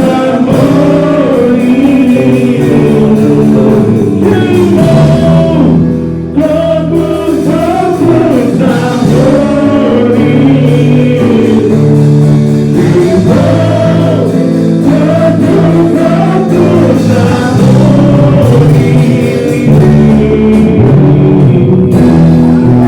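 Church worship music: voices singing a slow, sustained gospel worship song over instrumental accompaniment, with a brief drop in level about six seconds in.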